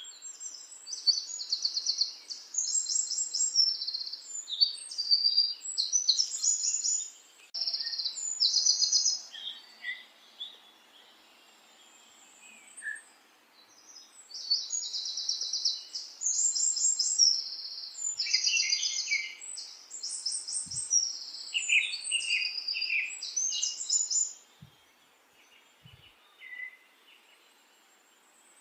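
Small songbird singing in a long run of rapid, high chirps and trills, with a short lull in the middle and near the end.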